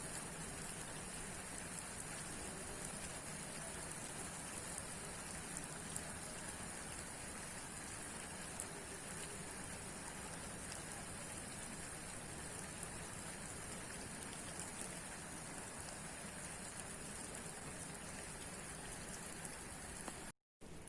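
Steady rain falling, with scattered individual drops ticking through the steady hiss. Near the end it cuts out for a moment, then resumes slightly quieter.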